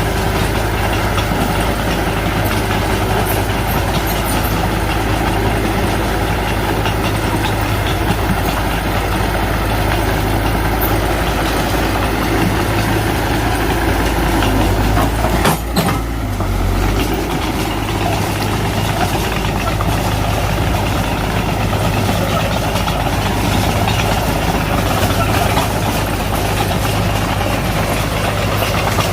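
Heavy diesel engine of earth-moving machinery running steadily, with a brief break about halfway through.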